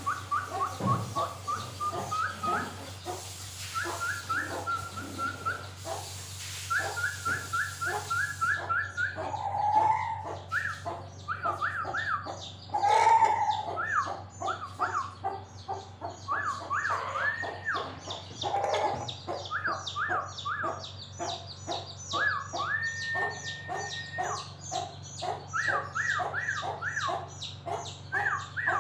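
Birds chirping in rapid runs of short, high notes, with a few louder, lower calls (the loudest about halfway through), over a steady low hum.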